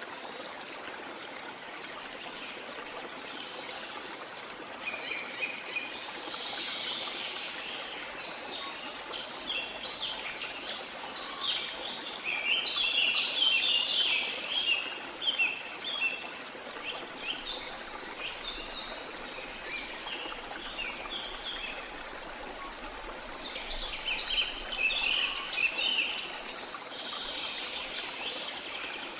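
Steady rush of falling water from a waterfall, with songbirds chirping over it in rapid high runs, busiest in the middle and again near the end.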